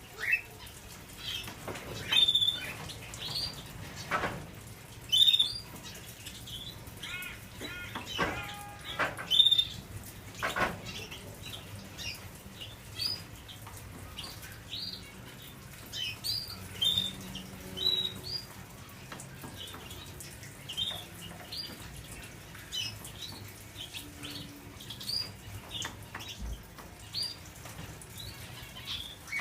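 Canaries chirping and calling in short, repeated notes throughout, with a brief trill about eight seconds in. A few brief louder rustles come in the first eleven seconds.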